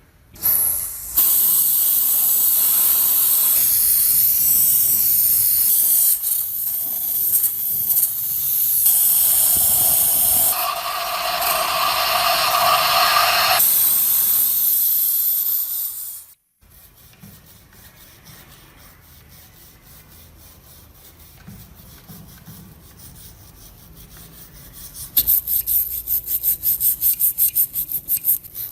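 Rusty metal of an old manual meat grinder being abraded: a loud, steady grinding hiss that cuts off suddenly about 16 s in. After a quieter stretch, fast, regular back-and-forth rubbing strokes start near the end.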